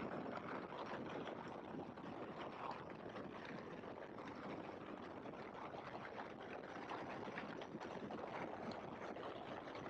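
Faint, steady rushing noise in the open cockpit of a Great Lakes biplane as it rolls out on the grass runway after landing.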